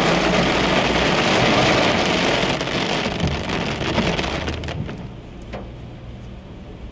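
Heavy rain drumming on a car's roof and windscreen, heard from inside the car. It is loud for the first few seconds, then eases off over the last couple of seconds, with a few sharper drop hits as it thins.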